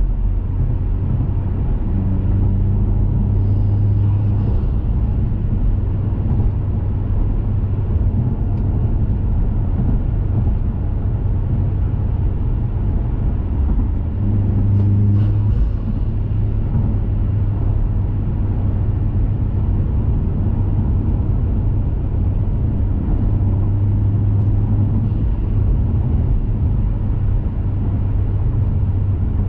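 2021 Mazda 3 Turbo's turbocharged 2.5-litre four-cylinder, fitted with a CorkSport cat-back exhaust and a high-flow intake, running steadily while the car cruises, with a low drone and road rumble. The engine note shifts in pitch a little now and then.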